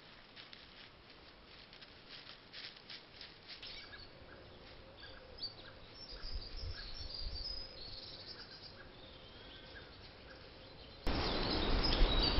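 Small garden birds chirping with short, high, scattered calls over quiet outdoor background, after a rapid run of ticks in the first few seconds. About a second before the end, a much louder rush of noise cuts in suddenly.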